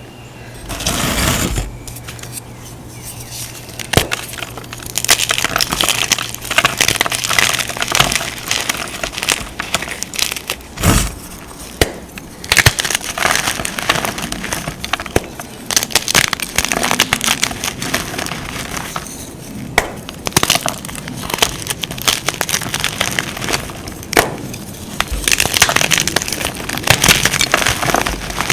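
Crunchy powder blocks being crushed and crumbled, a dense run of crackling crunches in bursts with short pauses between them, and a dull thump about eleven seconds in.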